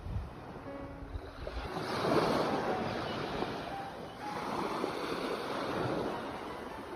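Ocean waves washing onto the shore, swelling about two seconds in and again about four seconds in, with low wind rumble on the microphone near the start.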